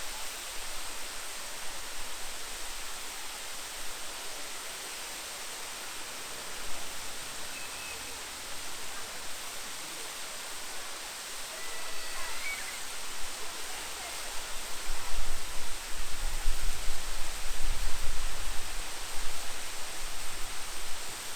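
Steady rush of falling water from a park waterfall. A low rumble rises in the second half.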